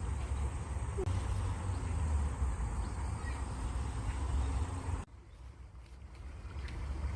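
Outdoor nature ambience of flowing water with a low rumble and a faint bird chirp or two. The sound drops off suddenly about five seconds in and swells back near the end.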